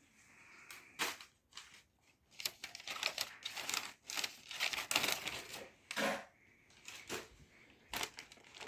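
Packing wrap being pulled apart and handled: irregular crinkling and tearing with sharp crackles.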